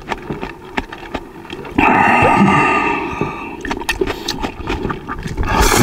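A person chewing raw napa cabbage close to the microphone: a rapid, uneven run of short crunching clicks. A louder rasping sound lasts about two seconds from near the two-second mark, and a short loud burst comes near the end.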